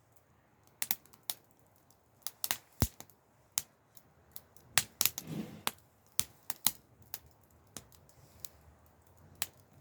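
Wood fire crackling: irregular sharp pops and snaps, about two a second, with a brief softer rush about five seconds in.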